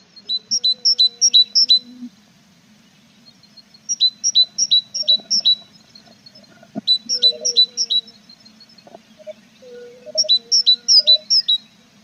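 A tit singing: four phrases of five or six quick, repeated two-note chirps, each about two seconds long with pauses between, over a faint steady low hum.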